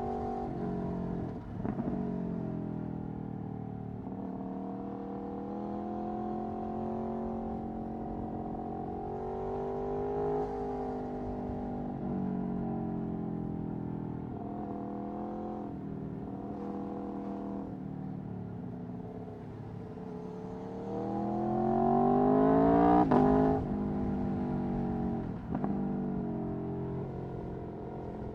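Aprilia Tuono V4 1100's V4 engine through an Akrapovic Racing exhaust, under way with the engine speed rising and falling. About three quarters of the way through it revs up hard in a loud rising sweep, then cuts sharply as the throttle closes or the gear changes.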